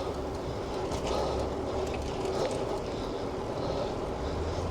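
Steady wind rushing over the microphone of a cyclist riding along, with a low rumble from the moving bicycle.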